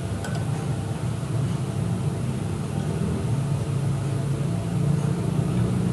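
Steady mechanical hum of a running motor, with a small click just after the start.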